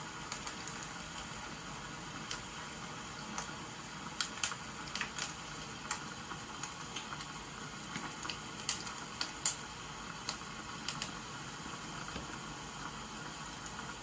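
Crackling wood fire over a steady hiss of rain, with a run of sharp pops and snaps from about four to eleven seconds in.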